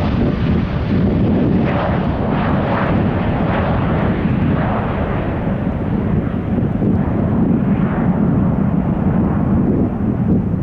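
Jet airliner's engines at take-off power: a loud, steady deep rumble with crackling, growing duller toward the end as the higher tones fade.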